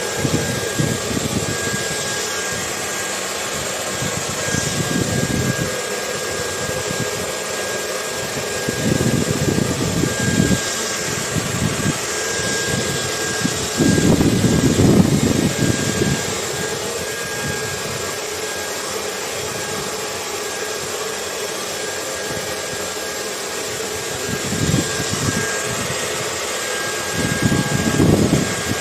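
Hair dryer running steadily, an even hiss with a thin high whine, layered with ocean wind that rumbles in low gusts every few seconds. The strongest gust comes about halfway through.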